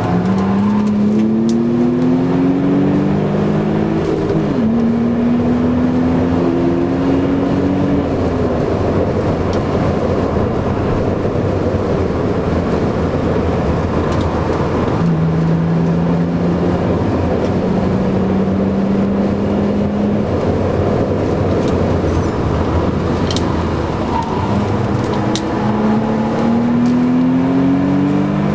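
BMW Z3 2.8's straight-six engine, heard from inside the cabin, pulling hard on a race track: the pitch rises under acceleration, drops sharply with an upshift about four seconds in, climbs again and falls away around eight seconds as the driver lifts. It then runs steadily under heavy wind and tyre noise and revs up once more near the end with another gear change.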